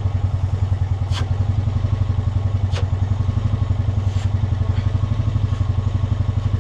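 An ATV engine running steadily at low revs with an even pulse, and a couple of brief light clicks.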